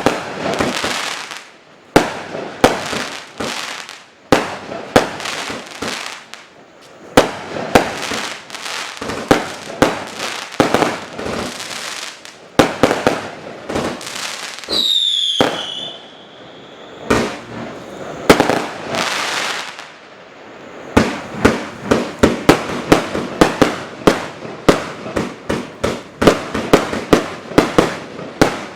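Consumer fireworks cake (a 2-minute single-fuse compound) firing shot after shot: sharp bangs, each followed by crackling. About halfway through, a whistle drops in pitch for about a second. The shots come faster over the last several seconds.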